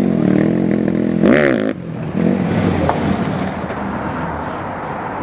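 Dirt bike engine running, with a sharp rev up and back down about a second in. The sound then drops off suddenly to a lower, steady engine and background noise.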